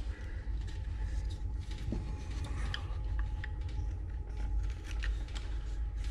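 Carving knife shaving small cuts from a wooden carving: faint, irregular scraping strokes and light clicks over a steady low rumble.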